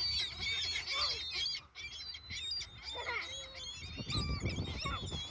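A flock of seagulls calling, with many short squawks and cries overlapping throughout as they crowd in for food.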